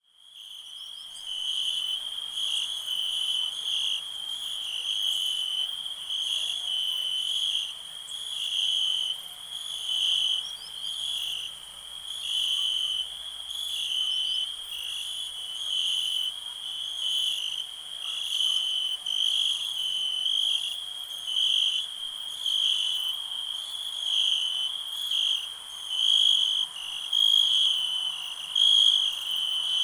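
Crickets chirping in a continuous chorus: a steady high trill with rhythmic pulsing chirps over it, fading in at the start.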